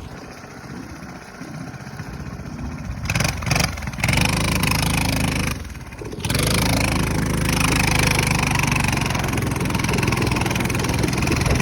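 Minibike's small engine running. It is quieter at first, comes up about three seconds in with a few short breaks, dips briefly near six seconds, then runs steadily.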